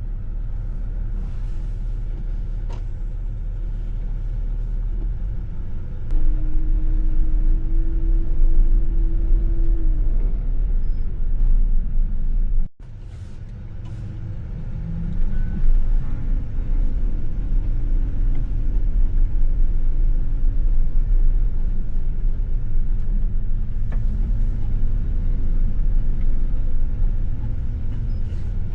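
Plow truck driving, its engine and road noise a steady low rumble that gets louder about six seconds in. The sound cuts out for an instant about thirteen seconds in.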